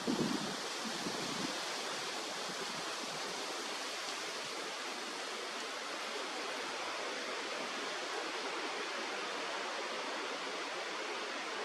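Steady rushing of a stream, an even hiss with no pattern. A gust of wind buffets the microphone at the start, dying away within the first second and a half.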